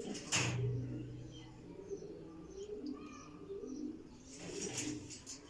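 Racing homing pigeons cooing, with a sudden sharp noise about half a second in and a burst of rustling noise near the end.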